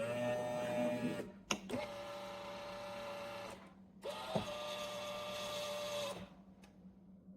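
Automatic espresso machine's motor running with a steady mechanical whine, in three stretches separated by abrupt cut-offs, with a sharp click about one and a half seconds in and another past the middle.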